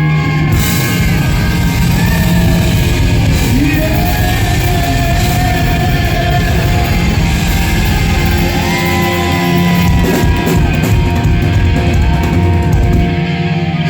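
Hard rock band playing live at full volume: electric guitars with bent and held notes over drums and bass.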